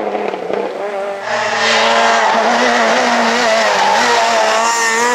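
Super 2000 rally car's naturally aspirated two-litre four-cylinder engine running hard at high revs, getting louder about a second in as the car comes closer, its note wavering up and down with the throttle.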